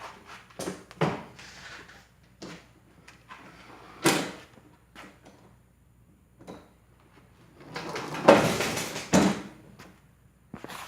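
Unboxing noises from the mower's carton and packaging being handled: a series of short knocks and scrapes, a sharp one about four seconds in, and a longer, louder stretch of scraping and rustling near the end.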